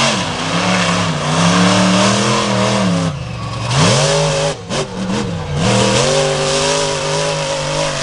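Monster truck engine revving hard, its pitch climbing and falling as the throttle is worked, with sharp drops off the throttle about three seconds in and again around five seconds.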